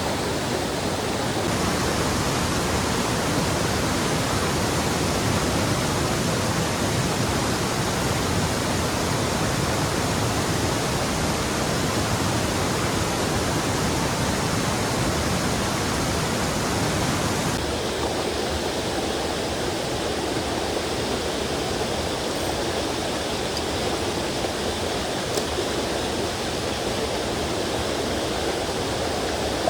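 Mountain stream rushing over rocks: a steady, full noise of running water with no other distinct sound. Its treble shifts abruptly twice, about a second and a half in and again a little past halfway.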